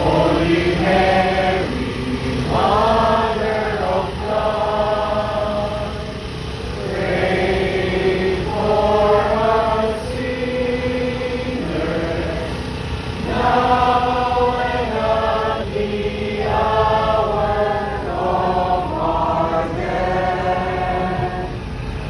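A choir singing a slow chanted hymn in sustained phrases of a couple of seconds each, with short breaks between them.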